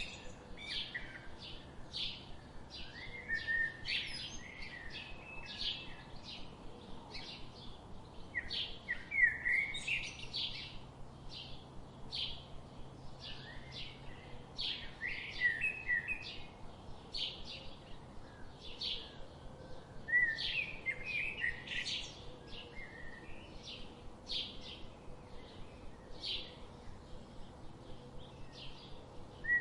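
Small birds chirping: a steady run of short, sharp chirps about two a second, broken every few seconds by louder warbling phrases.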